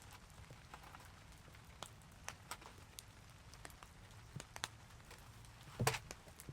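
Raindrops falling onto a surface in scattered, irregular ticks, with one louder knock near the end.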